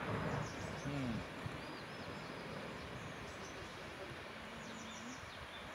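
Faint birds chirping over a steady outdoor hiss, with a short murmur of a person's voice about a second in.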